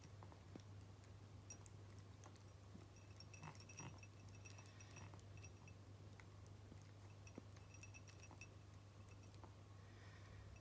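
Cat eating: faint chewing with scattered small clicks and a few clinks, loudest about four seconds in and again near eight seconds.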